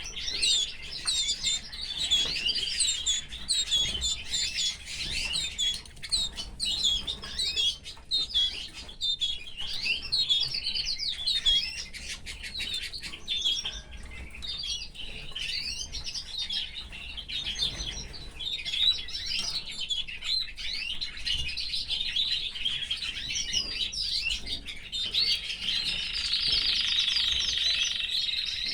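Domestic canary singing: a long run of fast, wavering chirps and warbles that ends in a steady rolling trill.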